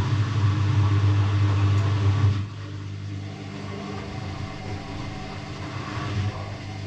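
Electrolux EW6S404WU washing machine starting up: a steady mechanical hum comes in suddenly, then drops to a lower, steady level after about two and a half seconds.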